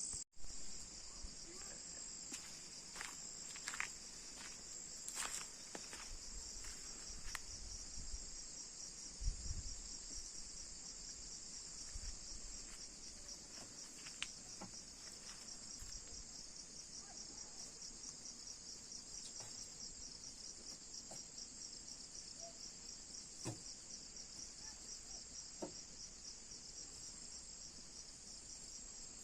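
Steady high-pitched insect chorus with a fast, even pulsing. A few sharp clicks and knocks come in the first third, with a low thump about nine seconds in.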